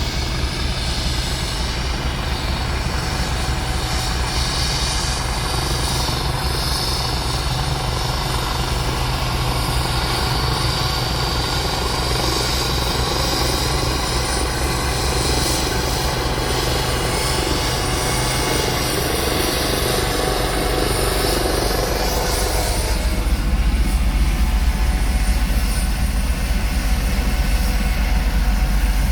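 Leonardo AW169 twin-turbine helicopter landing, its rotor beating steadily under turbine whine. About three-quarters of the way through, the deep rotor beat grows louder while the higher turbine hiss falls away.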